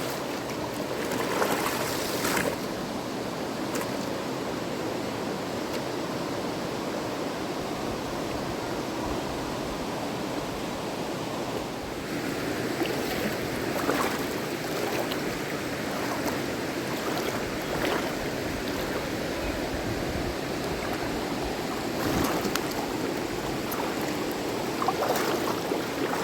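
River water rushing steadily, with a few brief sharp sounds now and then.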